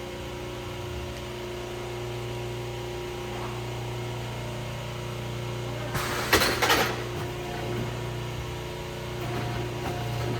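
Sawmill machinery running with a steady hum, interrupted about six seconds in by a short, loud rasping burst from the saw working wood.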